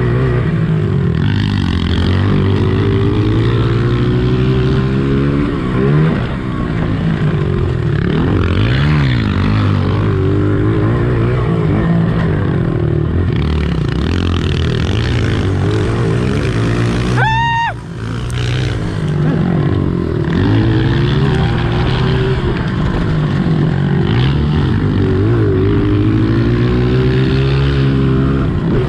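Four-stroke pit bike engine running hard, revving up and down repeatedly as the throttle opens and closes through gears and corners. About two-thirds of the way in there is a short high whine.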